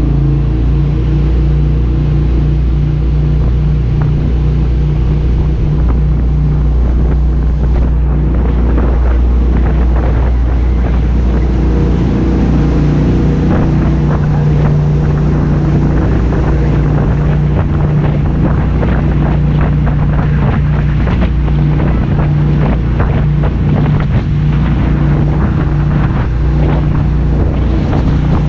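Jet boat under way, its engine droning steadily, with wind buffeting the microphone. The engine pitch shifts slightly a few times.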